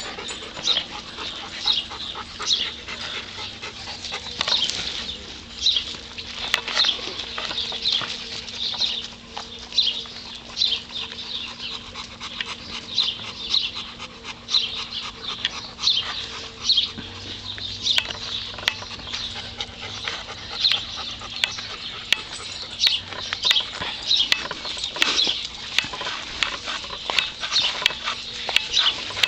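Dogs giving short, high yaps over and over, about one or two a second, over a faint steady hum.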